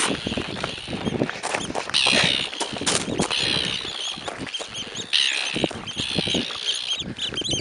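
Several birds calling harshly over and over in bursts as they dive at people who have intruded on them. Underneath are quick footsteps and rustling of someone running through low vegetation.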